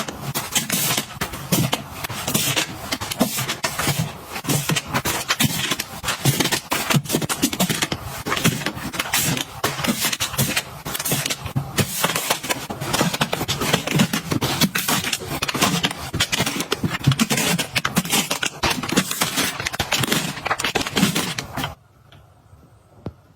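Close-up handling sounds of restocking: a dense run of clicks, taps and scrapes as packages and containers are picked up, set down, slid and rustled. It drops out for about a second near the end.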